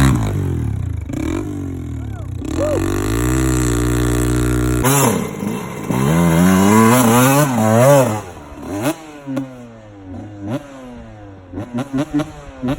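Dirt bike engine running, held at first, then revved up and down quickly several times, ending in short throttle blips.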